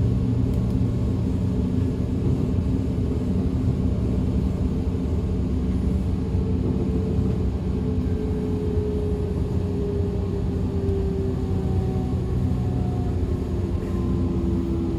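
DB Class 425 electric multiple unit heard on board while running: a steady rumble of wheels and running gear, with a thin drive whine that falls slowly in pitch through the second half, as the train slows.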